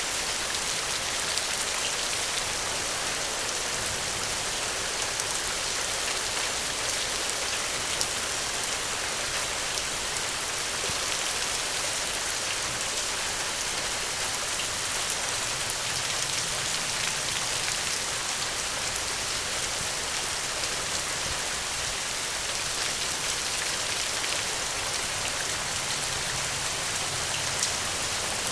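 Steady gentle rain: an even hiss with scattered ticks of individual drops.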